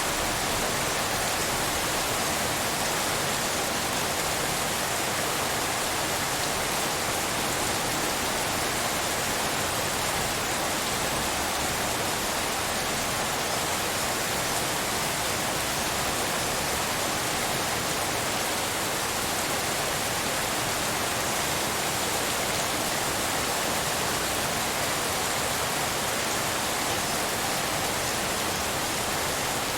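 Steady rain hiss shaped as pink noise: an even, unbroken wash with no separate drops or thunder standing out.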